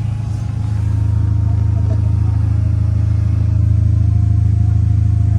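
A car running at a steady speed: a loud, even, low engine and road drone that cuts in suddenly and holds level throughout.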